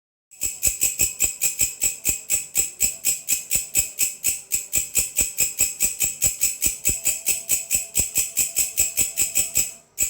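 Grasshopper stridulating: a fast, even series of sharp, high, rasping chirps, about five a second, that stops near the end with one last chirp.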